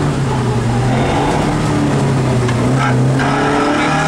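Rally car engine heard from inside the cabin, pulling steadily under load, its pitch sagging a little and then climbing again toward the end.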